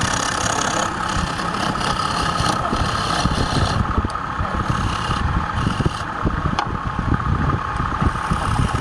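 Woodturning lathe running steadily, with a constant whine and a higher hiss that comes and goes.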